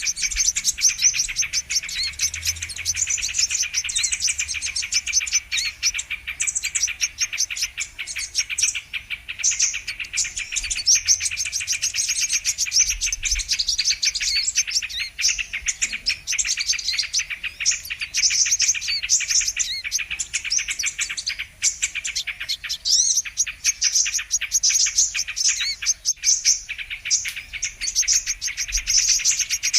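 Sunbird (kolibri kelapa) calling and twittering without pause, a dense run of rapid, high chirps: a recording played as a lure to call in the birds.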